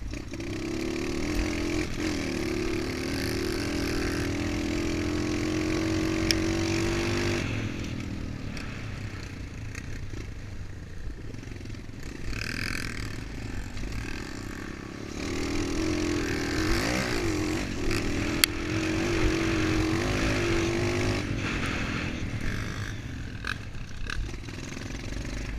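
MXF 125 motocross bike engine pulling under throttle twice. Each time its pitch climbs slowly for several seconds, and it drops back to a lower, quieter running in between and near the end.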